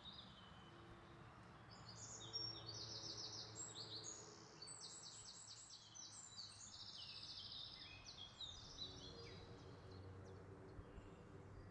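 Near silence with faint birdsong: quick high chirps and trills that come and go from about two seconds in until about nine seconds in.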